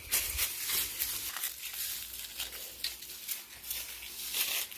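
Irregular rustling and crinkling handling noise, with a low rumble in the first second or so.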